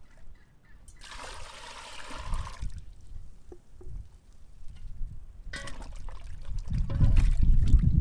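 Farmyard poultry calling: a harsh call lasting under two seconds about a second in, then a shorter call about five and a half seconds in. A low rumble builds near the end.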